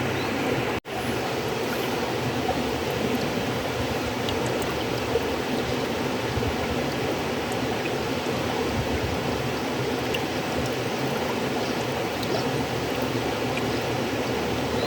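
River water flowing steadily, a continuous rushing of running water. The sound cuts out for an instant about a second in, then resumes.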